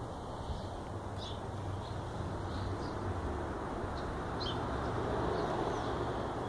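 Outdoor ambience: birds chirping in short, scattered high notes over a steady low rumble and hiss.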